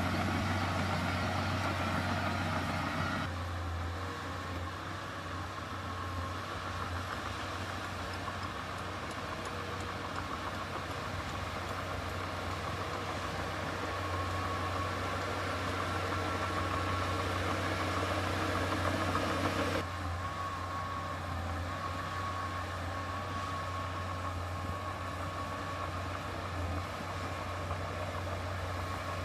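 Diesel engine of heavy earthmoving machinery running steadily with a low drone. The sound shifts abruptly about three seconds in and again about two-thirds of the way through.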